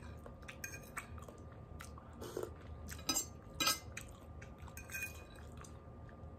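A person chewing and biting food at a meal, with a few short, sharp clicks scattered through.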